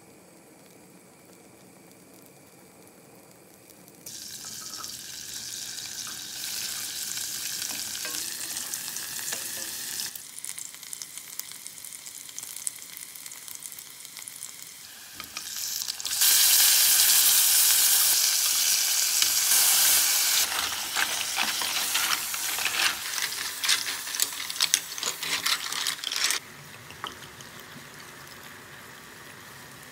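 Garlic sizzling in melted butter in a saucepan. It starts about four seconds in, then turns to a much louder hiss and spatter about halfway through as clams go into the hot pan. Shells clatter and crackle as the clams are stirred with a spatula, and it all drops back near the end.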